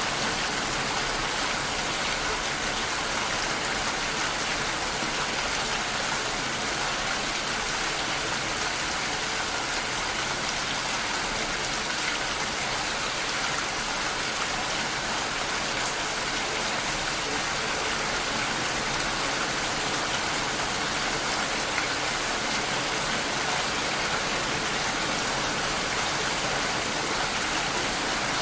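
Steady, even rain heard through a glass door.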